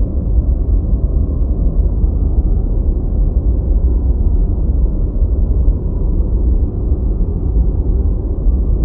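Continuous deep white noise: a steady, even rushing hiss weighted heavily toward the bass, with almost nothing in the high range, so it sounds like a low rumble rather than a bright hiss.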